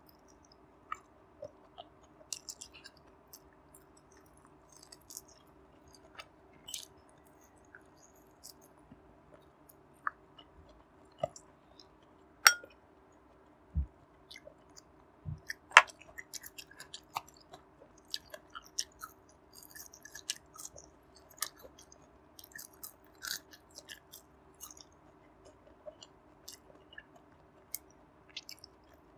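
Close-miked chewing and wet mouth sounds of a person eating barbecued pork belly, with many small lip and mouth clicks. A few louder sharp clicks and low knocks come around the middle.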